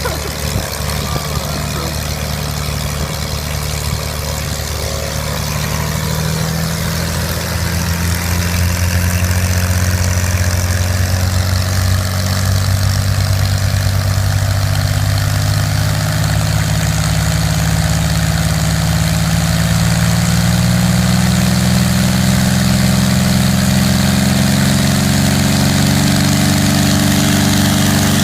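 A homebuilt airplane's engine running, with its pitch and loudness gradually climbing as it speeds up from idle.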